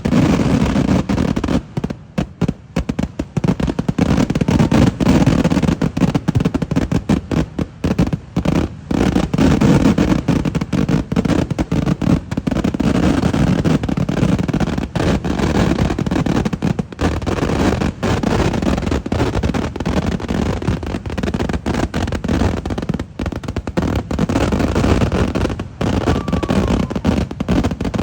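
Kerala temple-festival fireworks (vedikkettu) going off in a dense, continuous barrage: rapid overlapping bangs and crackling, with only a couple of brief lulls near the start.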